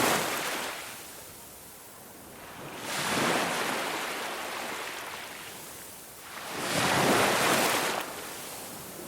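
Ocean waves breaking and washing up a beach: a rushing hiss that swells and ebbs with each wave, about every four seconds, the biggest surge near the end.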